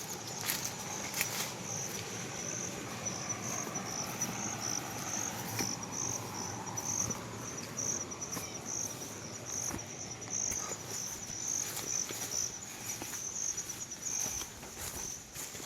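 Insects chirping in a high-pitched, evenly pulsing call, about two chirps a second, with a few sharp clicks now and then.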